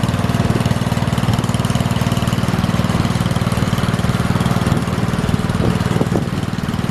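Small single-cylinder garden tractor engine running steadily at idle, with a fast even firing beat and a couple of faint knocks near the end.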